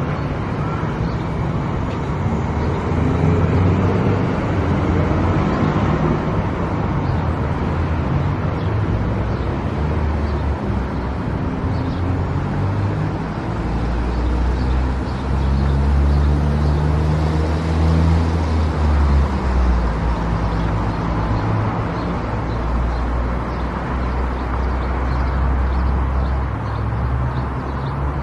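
Car driving on a highway: steady tyre and road noise with a low engine hum that rises and falls in pitch about halfway through.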